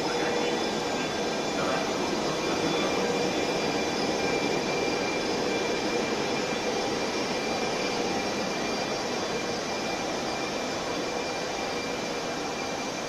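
Trenitalia E.464 electric locomotive and its Intercity coaches rolling slowly into the platform: a steady noise of wheels and traction equipment with a few faint steady whines, the lowest of which fades out about halfway through.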